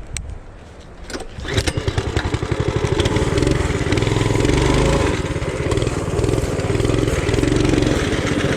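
Mini bike's small four-stroke engine starting up, catching about a second and a half in, then running with its speed rising and falling a little.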